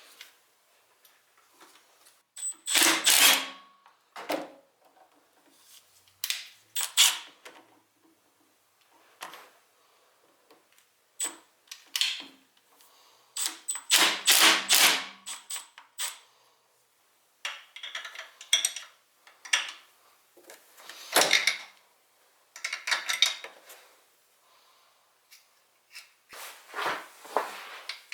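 Irregular clicks, clinks and short clatters of hand tools and small metal engine parts being handled, with pauses between, as the pit bike engine's top end is worked on for a camshaft swap.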